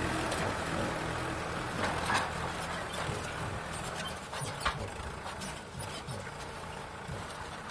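Mahindra Arjun 555 tractor's diesel engine running steadily while pulling a harrow through the field, gradually growing fainter, with scattered sharp clicks and rattles.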